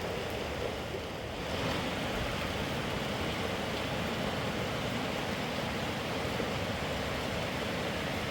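Heavy rain and wind making a steady rushing noise, which dips briefly about a second in and then comes back.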